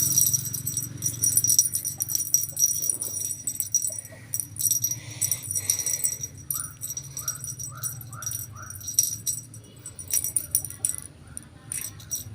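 Small bell jingling and rattling in quick, irregular shakes during play with a cat, with clear high ringing tones. A run of faint short rising chirps sounds a little past the middle over a steady low hum.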